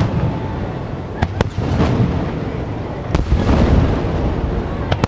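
Fireworks display: aerial shells bursting with sharp bangs, two in quick succession, another a couple of seconds later and one more near the end, over a continuous low rumble of the barrage that swells in the middle.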